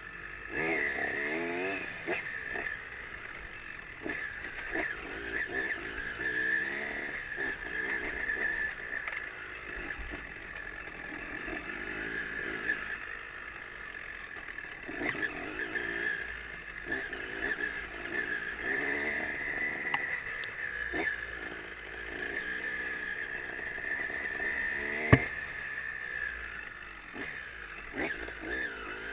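Trail motorcycle engine running and revving up and down over and over as it climbs and drops through the gears, with one sharp knock about 25 seconds in.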